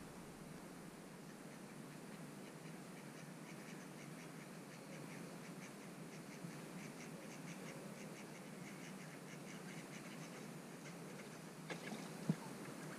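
Faint, rapid series of evenly repeated calls from a bird on or near the lake, running on for several seconds over a steady outdoor hiss. A single sharp knock sounds near the end.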